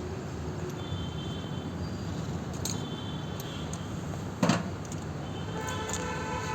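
Steady low background rumble with faint high tones, broken by one sharp knock about four and a half seconds in.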